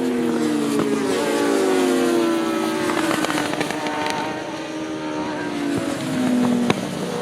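Several large-capacity racing motorcycles passing at speed, their engine notes overlapping and falling in pitch as they go by. A sharp click comes near the end.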